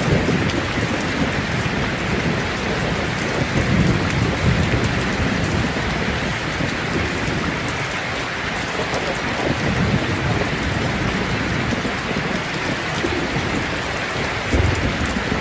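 Steady, heavy rain pouring down, with low rumbles of thunder swelling and fading several times.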